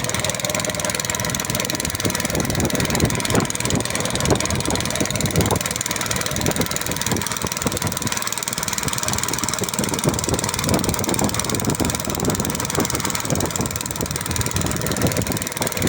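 An engine running steadily, with irregular knocks throughout.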